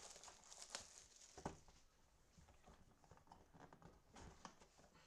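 Faint rustling and light taps of trading-card packaging being handled, with a sharper click about a second and a half in.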